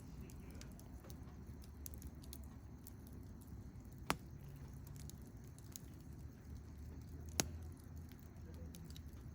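Wood campfire crackling quietly over a low steady rumble, with scattered small ticks and two sharp pops about four and seven seconds in.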